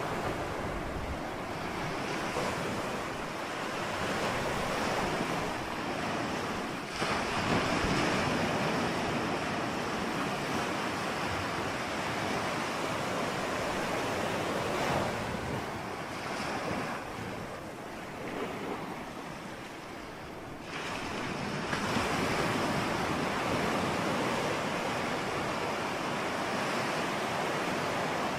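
Ocean surf: a continuous wash of waves, with a wave breaking and swelling louder about every seven to eight seconds.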